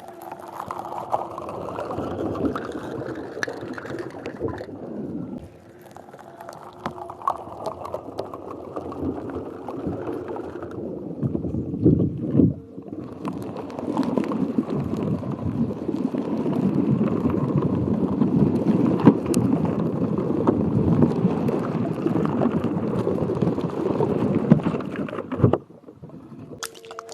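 Water swishing and gurgling in a container, close to the microphone, in three bouts; the last and loudest bout cuts off sharply near the end.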